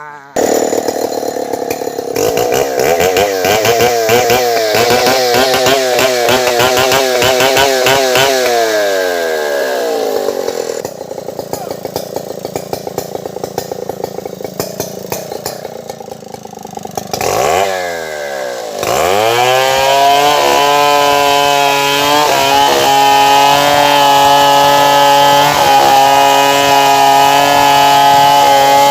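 Stihl 070 two-stroke chainsaw, its pitch wavering up and down, then dropping to idle about ten seconds in. It idles for several seconds, then revs up again near the twenty-second mark and holds a steady high speed to the end.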